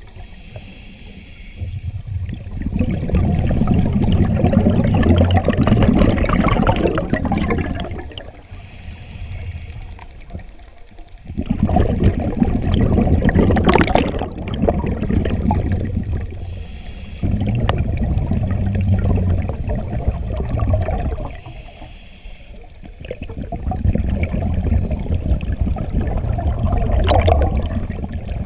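Scuba diver's exhaled bubbles rushing and gurgling out of the regulator in four long bursts a few seconds apart, with quieter pauses between them in a breathing rhythm.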